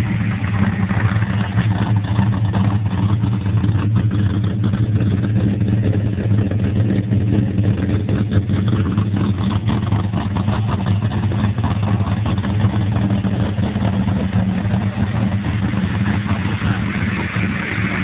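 Holden VX Commodore SS's 5.7-litre LS1 V8, fitted with a big cam, idling steadily through its twin-tip exhaust.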